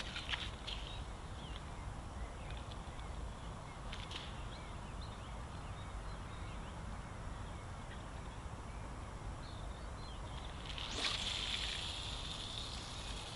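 Faint riverbank ambience: a steady low rumble with scattered bird chirps and a few sharp clicks, and a louder hissing rush about eleven seconds in that lasts around two seconds.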